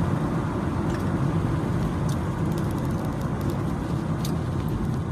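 Steady low rumble of a car on the move, road and engine noise with no change in pace, and a few faint ticks.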